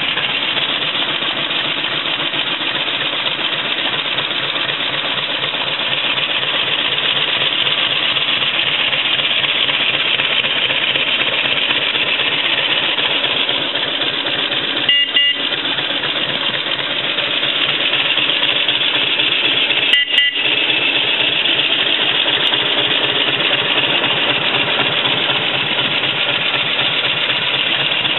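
1951 Indian Chief's flathead V-twin engine running steadily at idle. Two short, sharp sounds break in about five seconds apart around the middle.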